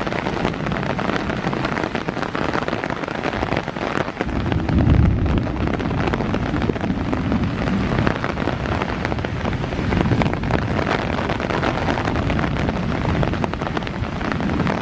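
Heavy rain pouring down, its drops pattering densely close to the microphone, with a low rumble swelling from about four to six seconds in.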